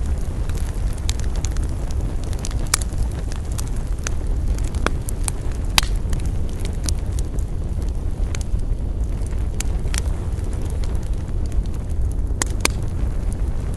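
Campfire burning, with irregular sharp crackles and pops from the wood over a steady low rumble; two pops come close together near the end.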